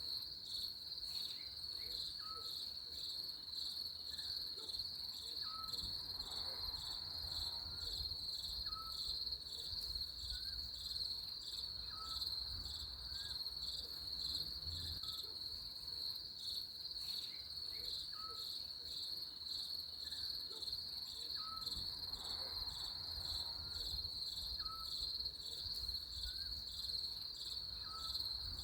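A steady chorus of insects trilling in a high, rapidly pulsing chirp, with a short faint lower chirp repeating every second or two beneath it.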